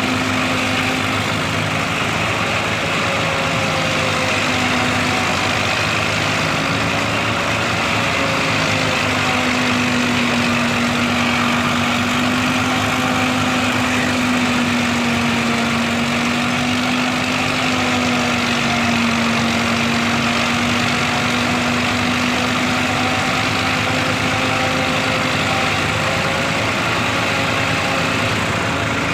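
A silage machine and the engine driving it running steadily, with an even hum that wavers slightly in pitch.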